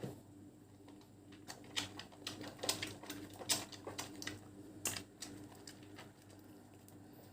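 Wet soap being lathered by hand, with irregular squelching and crackling clicks of foam that are densest in the middle of the stretch.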